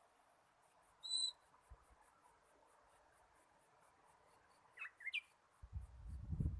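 Oriental magpie-robin calling: one clear, short whistled note about a second in, then two or three quick sweeping whistles about five seconds in. A low rumble sets in near the end, as loud as the whistle.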